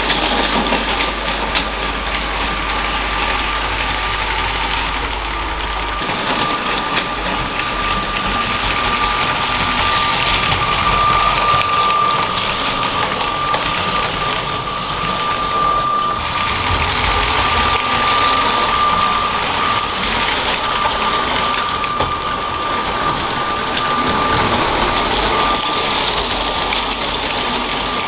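LEGO toy train running on plastic track: its small electric motor gives a steady high whine over a constant rattle and clicking of the wheels on the rails.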